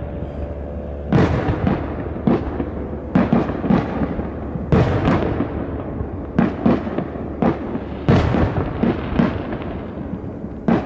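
Aerial fireworks shells bursting in a display: about fifteen sharp bangs at irregular spacing, some in quick pairs, over a continuous low rumble. The bangs start about a second in.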